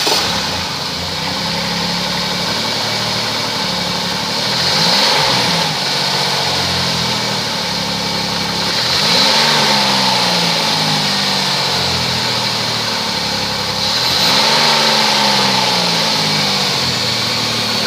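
2010 Chrysler Town and Country V6 engine idling just after start-up. It is revved three times, each rev rising quickly and settling slowly back to idle.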